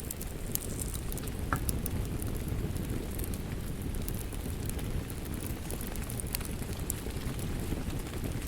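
Wood fire crackling, with scattered sharp pops (one stronger pop under two seconds in), over a steady low rush of rain.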